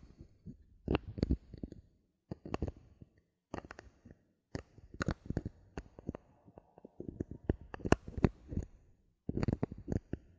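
Bottle caps being handled close to the microphone for ASMR: groups of sharp clicks and short scratchy rasps, such as a cap being twisted and tapped, with brief pauses between.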